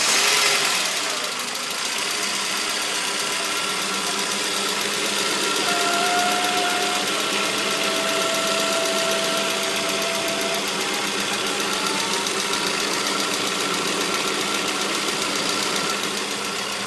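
Saab 9-5 engine idling with a whine "almost like a cat": a thin high tone comes in about six seconds in and holds for several seconds, with a fainter, higher tone running alongside. Its cause is unknown to the owner.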